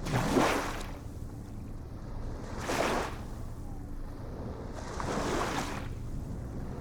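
Small ocean waves breaking in a regular rhythm: three short splashes, one about every two and a half seconds, over a steady low rumble of surf.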